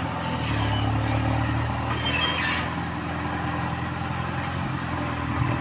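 Farm tractor engine running steadily, with a brief higher-pitched sound about two seconds in.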